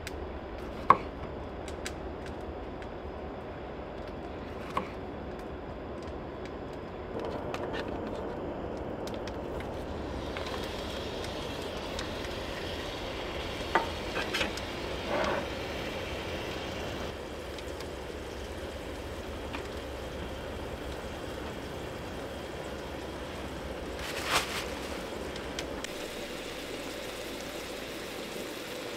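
Beef burger patties sizzling in a cast-iron skillet on a propane camp stove, with a few sharp knocks and clatters from a knife on a cutting board and a spatula against the pan, the loudest about a second in.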